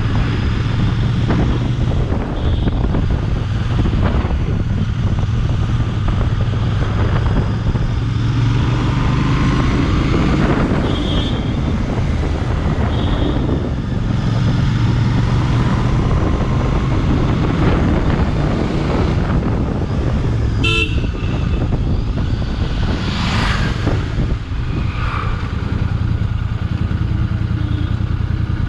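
Royal Enfield Bear 650's 648 cc parallel-twin engine running while the bike is ridden, heard onboard with wind noise on the microphone. Several short vehicle horn toots sound over it.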